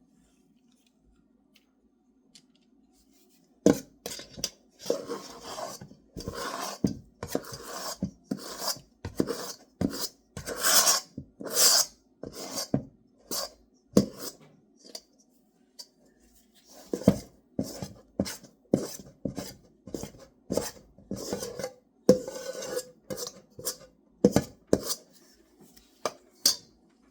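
Cookie scoop scraping drop-biscuit dough out of a mixing bowl and knocking it down onto a baking sheet: a long run of irregular scrapes and clicks that starts a few seconds in, with a short pause about two-thirds of the way through.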